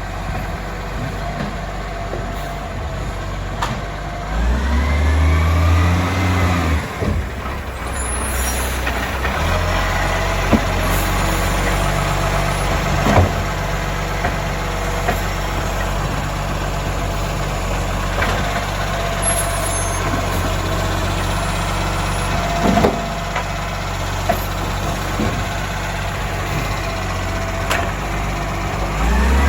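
Euro 5 garbage truck's diesel engine running through a collection, revving up with a rising whine about four to seven seconds in. A few sharp knocks come through the steady engine sound.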